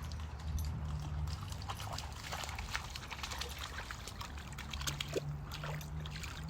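Shallow creek water trickling, with irregular splashes as a dog wades through it, over a low steady rumble.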